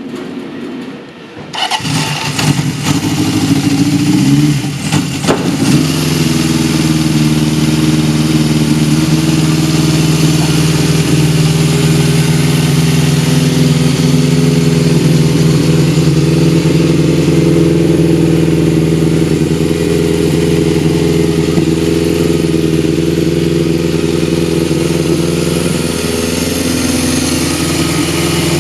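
Honda CB750G motorcycle engine starting: it cranks and catches about a second and a half in, and the revs rise and fall over the next few seconds. It then settles into a steady idle.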